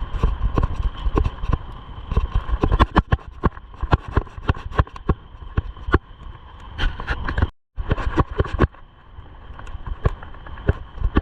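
Bicycle rattling and knocking as it jolts over rough ground, many irregular knocks a second over a low wind rumble on the microphone. The audio cuts out for a moment about two-thirds through.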